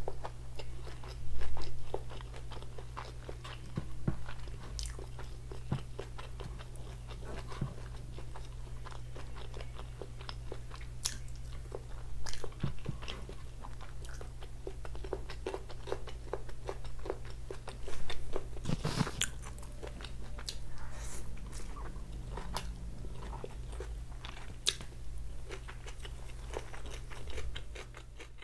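Close-miked ASMR eating: chewing and mouth sounds of someone eating noodles and fried rice by hand, with many small sharp clicks and a few louder bites about a second in and around two-thirds of the way through. A steady low hum runs underneath.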